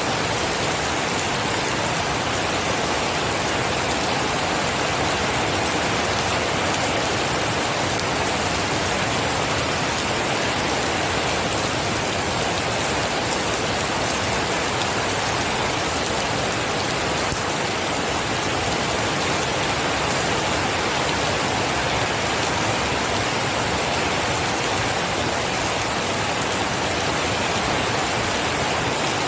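Steady rain falling: an even, unbroken hiss with no thunder and no change in level.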